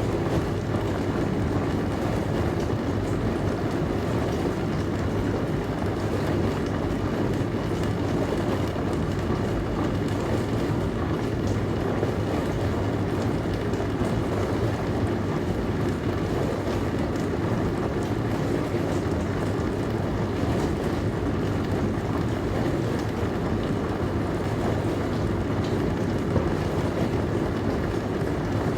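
Dishwasher running: a steady, unbroken wash of water spray over a low motor hum.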